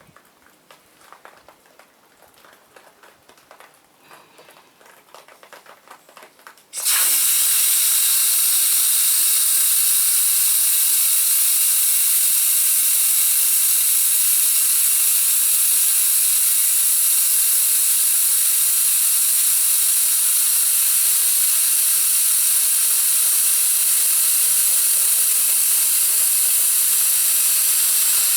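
Pressure washer jet spraying with a loud, steady hiss that starts abruptly about seven seconds in.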